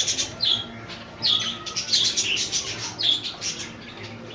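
A flock of budgerigars chirping and squawking together, many short, sharp, falling calls overlapping.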